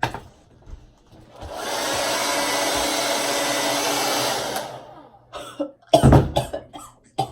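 Handheld hair dryer switched on and running steadily for about three seconds, then switched off. A few loud sudden sounds follow about six seconds in.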